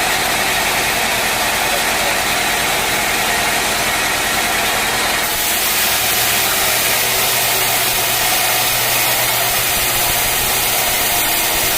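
Sawmill machinery running steadily: a constant motor hum under a loud, even hiss that turns brighter about five seconds in.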